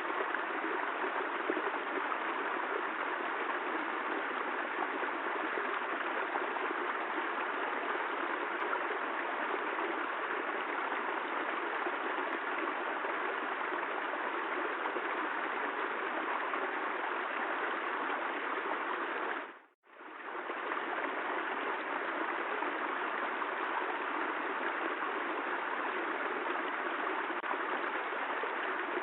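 Steady hiss of falling rain that briefly fades out to silence and back about two-thirds of the way through, where the looped recording restarts.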